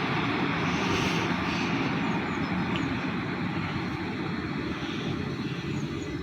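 Train running past: a steady rumbling noise that eases off slightly over the few seconds.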